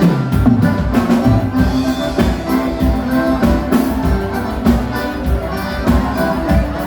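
Live gaúcho dance-band music led by a button accordion (gaita) over bass and drum kit, in an instrumental passage with a steady beat.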